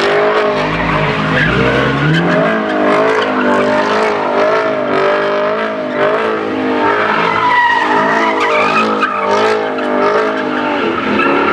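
A car drifting: its engine held at high revs that waver up and down, with tyres squealing.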